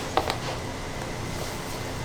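Two quick knocks just after the start, over a steady background hum.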